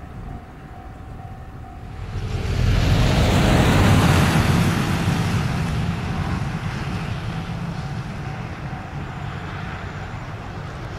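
Electric limited-express train passing at speed over snow-covered track. The rush of noise swells about two seconds in, peaks a couple of seconds later, then slowly fades as the train runs away.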